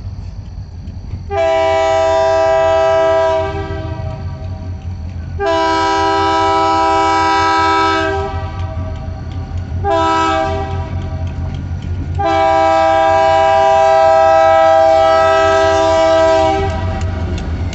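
Diesel locomotive's multi-chime air horn sounding the grade-crossing signal: two long blasts, a short one about ten seconds in, then a longer final blast. A steady low rumble of the passing train runs underneath.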